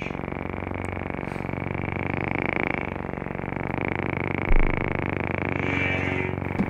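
NeoPixel lightsaber's speaker playing the idle hum of a Tusken-themed sound font: a steady, low electric buzzing drone with many overtones, holding level throughout.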